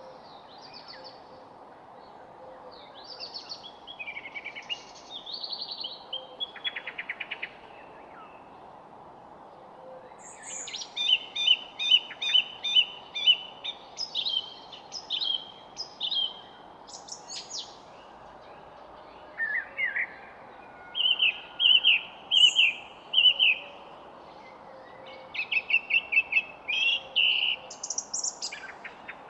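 Songbirds singing in bursts of rapid, repeated chirping notes, several phrases a few seconds long with short pauses between, over a steady background hiss.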